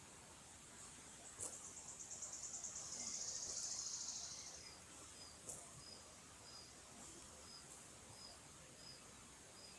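Small songbird singing: a high series of notes that quickens into a buzzing trill lasting about three seconds, then a thin short call note repeated about twice a second. A faint steady high hiss runs underneath.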